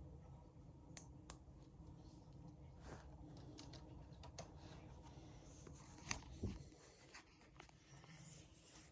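Near silence with faint, scattered clicks and taps of small plastic model railway wagons being handled and set on the track.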